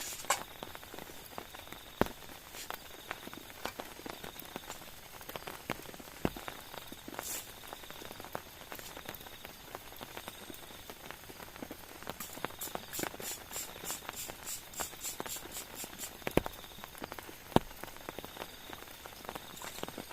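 Rain falling steadily, with irregular drips knocking on a surface and a few sharp, louder drops. Past the middle, a rapid run of high-pitched chirps, several a second, goes on for a few seconds.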